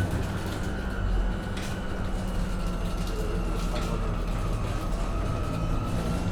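Onboard ride sound of a MAN Lion's City hybrid city bus: a steady low rumble of the drive and road, with a thin high whine from the hybrid's electric drive that sinks slowly in pitch and starts rising again near the end.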